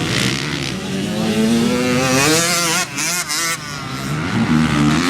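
Dirt bike engine accelerating, its pitch climbing for about two seconds. About three seconds in it wavers with two brief drops in level, then climbs again near the end.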